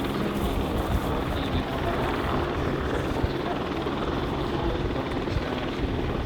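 AS350BA Squirrel helicopters in flight: steady rotor and turbine sound with a low hum that stays even throughout.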